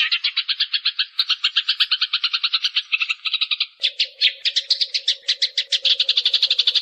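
Eurasian tree sparrows chattering in a continuous fast run of short chirps, about nine a second. About four seconds in, a faint steady low hum joins them.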